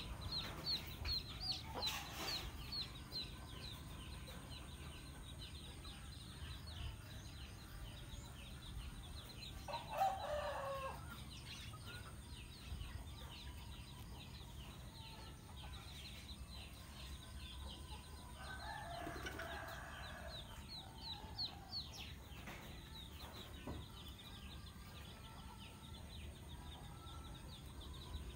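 Birds calling: quick, high chirps repeated several times a second for much of the time, with two louder calls of about a second each, about ten and nineteen seconds in.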